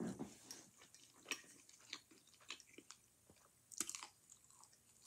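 Faint chewing of crispy battered fried chicken: irregular soft crunches and mouth clicks, with a brief louder cluster about four seconds in.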